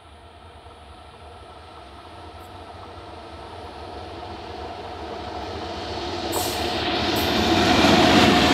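Indian Railways WAP-7 electric locomotive hauling a passenger train as it approaches and draws level, its rumble getting steadily louder and reaching a peak near the end. A few sharp clicks come in the last two seconds as the train comes close.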